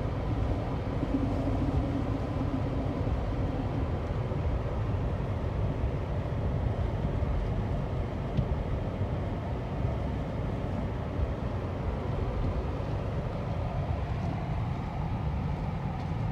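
Car being driven on slushy streets, heard from inside the cabin: steady road and tyre noise with the engine's hum underneath.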